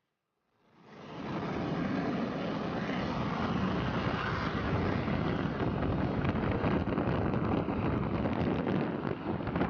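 Steady jet aircraft engine noise, fading in after a brief silence about half a second in and then holding even.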